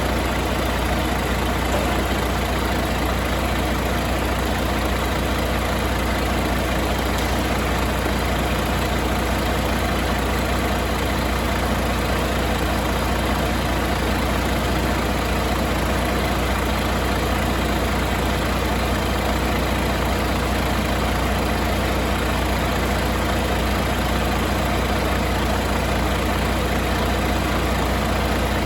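Volvo D13 inline-six diesel engine idling steadily, with no change in speed.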